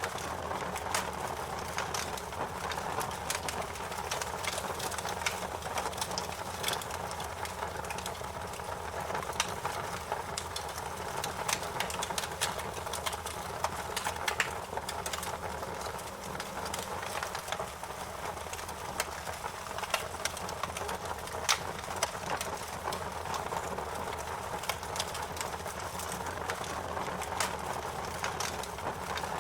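Campfire burning with a steady low rush of flame and frequent small sharp crackles and pops of burning wood.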